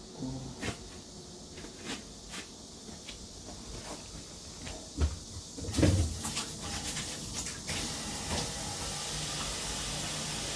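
Scattered knocks and clicks of parts being handled at a kitchen sink, with a louder clatter about six seconds in, then a steady rush of running water from about eight seconds in.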